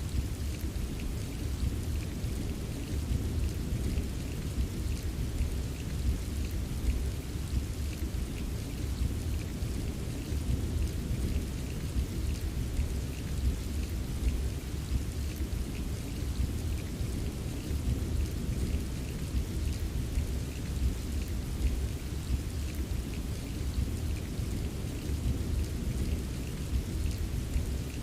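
Steady rain with scattered individual drops ticking, over a continuous low rumble of distant thunder. There are no sharp thunderclaps.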